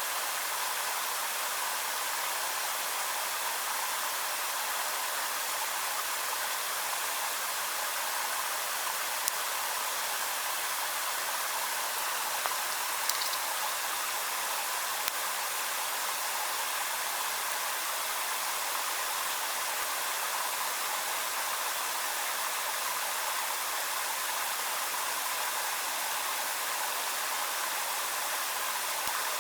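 A steady, even hiss that does not change, with a few faint single clicks about a third of the way in.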